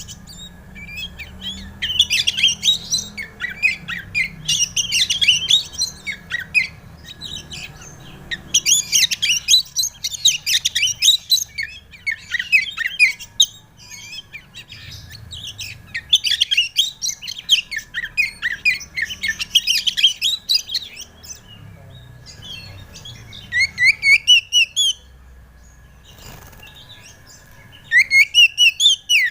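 Oriental magpie-robin (kacer) singing: phrases of rapid, varied high whistles and chirps, each lasting a second to several seconds, with short pauses between them. A faint steady whine runs underneath.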